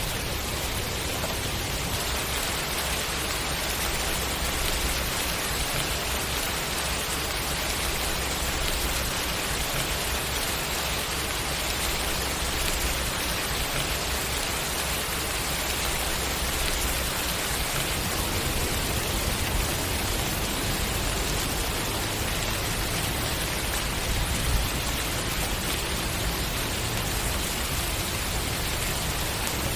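Steady rainfall with raindrops pattering on surfaces, an even hiss with no pauses.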